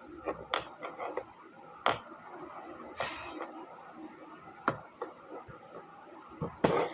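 Scattered sharp clicks and knocks of small model-kit parts being handled and fitted together, about five taps spread out, the loudest near the end.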